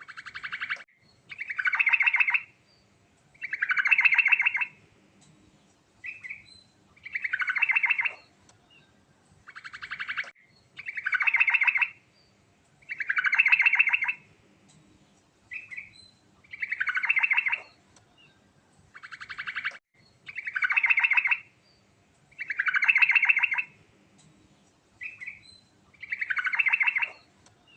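Yellow-vented bulbul (trucukan) singing: a short, rapid, pulsed phrase repeated about every two seconds, with single short chips between some of them.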